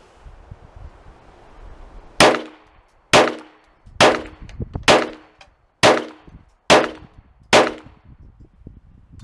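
Seven gunshots fired at a steady pace, roughly one a second, each with a short ringing tail.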